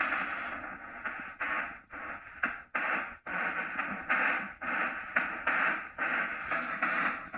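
Ghost box (hex box) sweeping rapidly through radio stations: choppy static and split-second fragments of broadcast sound, cutting in and out every few tenths of a second.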